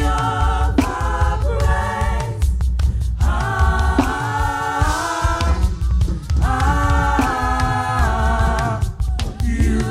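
Gospel worship music: a choir sings long held chords over a band with a heavy bass line and drums.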